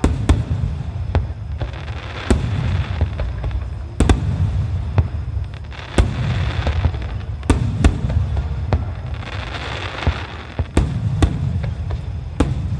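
Japanese fireworks starmine: aerial shells bursting in sharp booms about every second, about a dozen in all, over a steady low rumble of echoing explosions, with crackling stars fizzing between the bursts.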